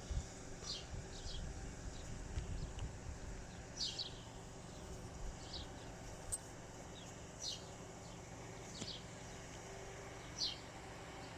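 A small bird chirping short, high, falling notes, one every second or two, over a faint steady low hum.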